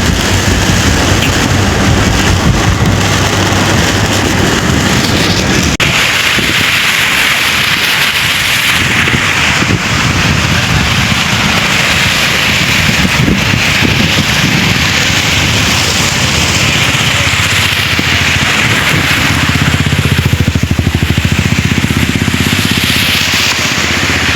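Heavy rain pouring down: a loud, steady hiss of falling water.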